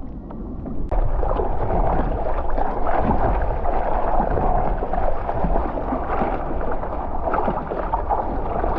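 Water splashing and sloshing against a paddle craft in choppy water, with wind buffeting the microphone; it gets suddenly louder about a second in and then keeps on steadily.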